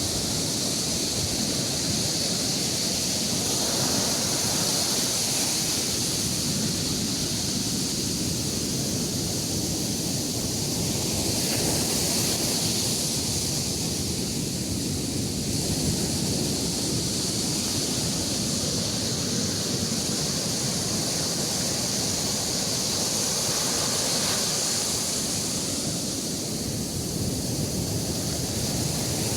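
Sea surf breaking and washing up on a beach: a steady rush of wave noise that swells and eases every several seconds.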